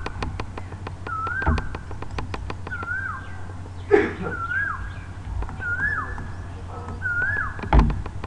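A bird calling over and over, one short chirp that rises and then drops, about once a second, with light clicking of a computer mouse. There are three louder thumps, about one and a half, four and eight seconds in.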